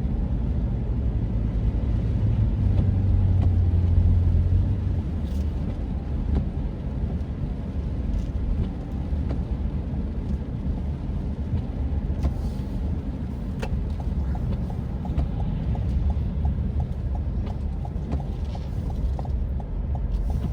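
Car driving, heard from inside the cabin: a steady low engine and road rumble, heavier for the first few seconds. A faint, regular light ticking runs through the second half.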